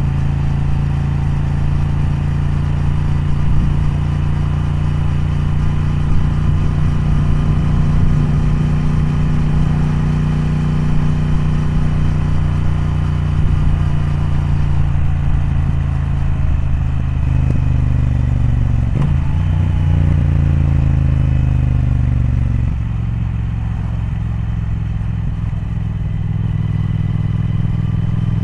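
Triumph Speed Twin's parallel-twin engine running steadily at first. From about halfway in, the note falls as the throttle eases, it drops quieter, and it picks up again near the end.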